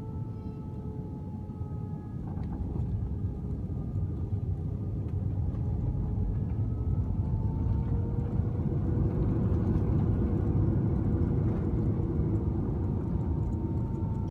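Aircraft cabin noise during the landing: a steady low rumble with thin, slowly sliding engine whine tones. It grows louder a couple of seconds in and again about halfway through.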